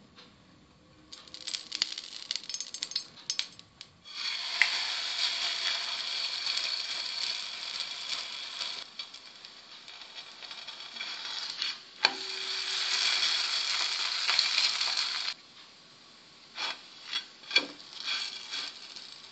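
Msemen (Moroccan layered flatbread) sizzling on a hot flat pan as it cooks, an even hiss that starts about four seconds in and cuts off suddenly about four seconds before the end. A few clicks and knocks come before and after it.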